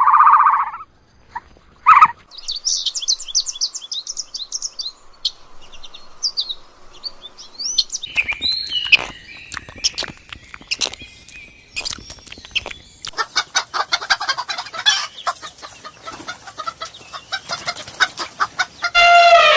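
Chickens: high chirping for the first few seconds, then busy clucking over many sharp clicks and scratches. Near the end a loud call starts that falls in pitch.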